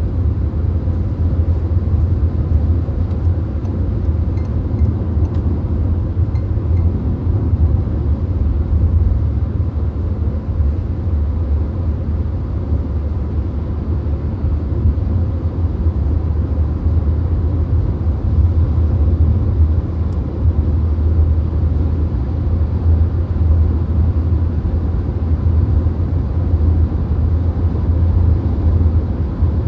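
Steady low rumble of a VW Golf cruising on a motorway, heard from inside the car, with no change in speed or pitch.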